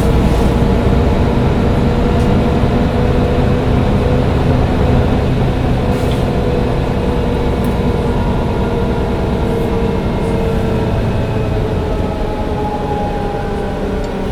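Mercedes-Benz O405 N1 low-floor city bus under way: its engine runs steadily with a low rumble, getting gradually quieter over the stretch, with a few light clicks and rattles.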